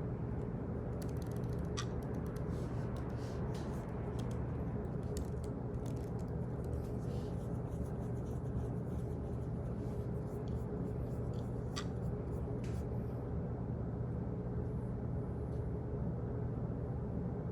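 Office ambience: a steady low hum of room noise with scattered, irregular light clicks, more of them in the first few seconds and a couple of sharper ones around the twelve-second mark.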